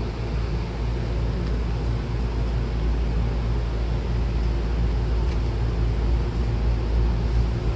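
Steady low hum and rumble of a Hankyu electric train standing at the platform with its doors open, its onboard equipment running, heard from inside the car.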